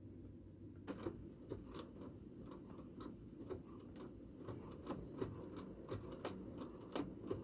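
Sewing machine running on a test after being rethreaded with a new plastic bobbin to cure its jamming: a faint mechanical clatter with sharp clicks about two to three times a second, starting about a second in.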